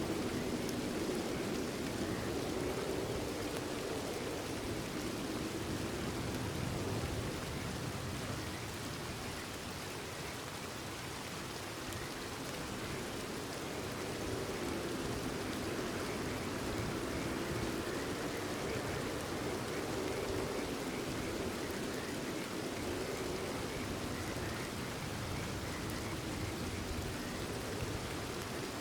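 Steady rain falling in an even, dense patter, with frogs calling faintly underneath.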